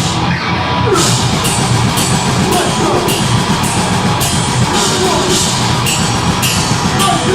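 Deathgrind band playing live at full volume: heavily distorted guitars and bass over drums, with cymbal crashes about twice a second.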